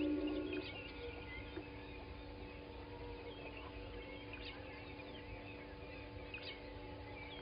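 Morning bird chorus at a waterhole: many birds chirping and whistling on and off, over a steady low hum. A goose-like honk ends about half a second in.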